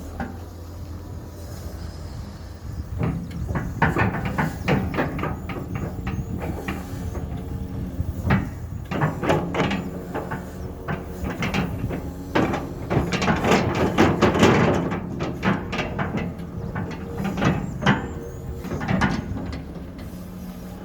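Excavator working: its engine runs steadily under a long series of sharp knocks and scrapes from the arm and bucket, starting about three seconds in.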